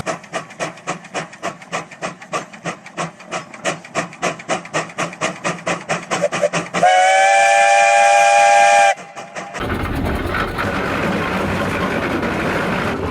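Steam traction engine exhausting in quick, even chuffs, about four or five a second. About seven seconds in, a steam whistle blows one steady blast of about two seconds. After that a steady hiss of steam and running machinery follows.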